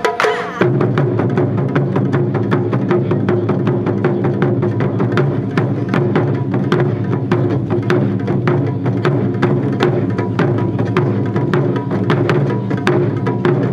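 Wadaiko (Japanese taiko) ensemble drumming: a dense, steady run of rapid strikes over deep, ringing drum tones. There is a brief break in the strokes just after the start.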